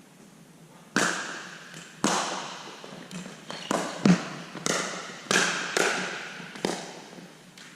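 A pickleball rally: paddles striking the hollow plastic ball and the ball bouncing on the court, about ten sharp pops at an uneven half-second to one-second spacing, each with an echoing ring.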